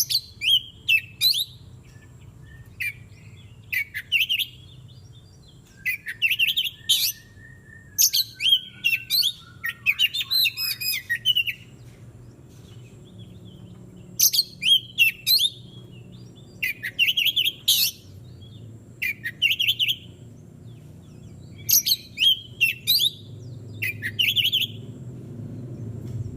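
Oriental magpie-robin (kacer) singing: short bursts of rapid, bright chirps and whistles, each about a second long and coming every second or two. A longer, lower whistle falls slowly in pitch a few seconds in.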